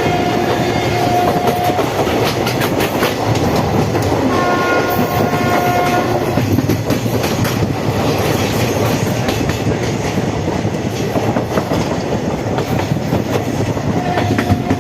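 A moving train running: a steady rumble with wheel clatter on the rails. A train horn sounds for about two seconds at the start, again about four to six seconds in, and once more near the end.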